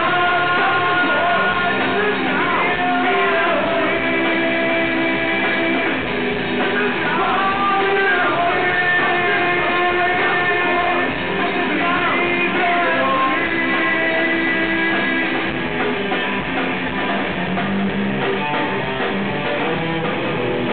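Rock band playing live, with singing over electric guitars, bass and drums.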